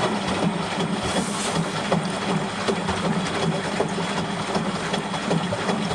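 Washing machine running on its drain-and-spin cycle: a steady mechanical hum with a light irregular rattle, after starting abruptly just before.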